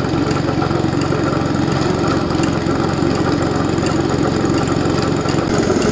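Gasoline snow blower engine running steadily as it clears snow.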